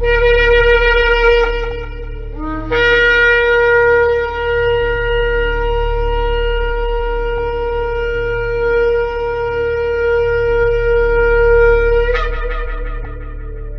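Shofar (ram's horn) blowing. One blast ends about two seconds in; a short lower note then rises into a long, steady held blast of about nine seconds. It breaks upward in pitch about twelve seconds in and dies away in a fading tail, over a steady low hum.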